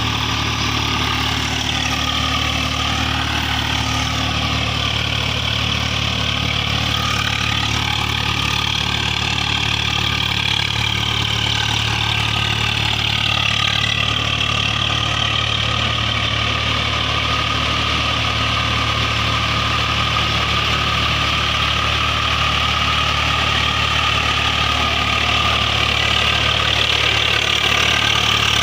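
Tractor diesel engine running at a steady speed, with a higher whine that rises and falls in pitch a few times.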